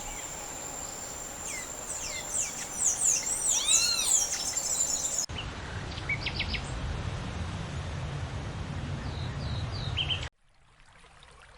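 Wild birds calling in the African savanna, with repeated quick chirps over a steady high whine. About halfway through, the ambience changes to a low rumbling noise with a few short chirps. It drops to a faint hush about a second before the end.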